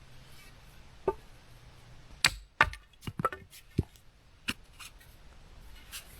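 Sharp, irregular knocks and clicks of wood being worked by hand, about eight in a few seconds, the loudest near the middle.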